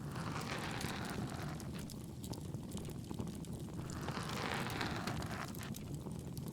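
Crackling bonfire over a steady low rumble, with two soft swells of ear-pick scraping close to the ear: one near the start and a stronger one about four seconds in.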